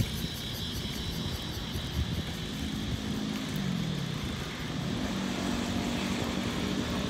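An engine running steadily with a low drone; its pitch falls about three and a half seconds in and rises again about five seconds in.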